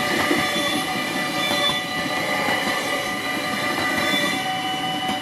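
Local stopping train running slowly past over a level crossing, its wheels and carriages rumbling on the rails. The crossing's two warning bells ring steadily over it.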